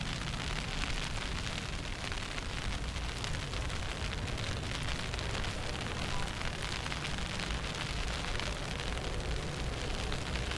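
Steady wind noise buffeting the microphone in a snowstorm: a low rumble under a constant hiss.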